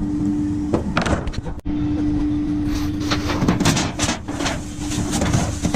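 Junk being rummaged and shifted in a dumpster: irregular clattering, knocks and rustling over a steady low hum.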